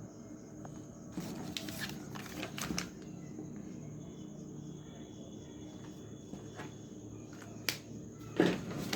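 Paper being handled: brief crackling rustles in a cluster between about one and three seconds in and again near the end, over a faint steady hum.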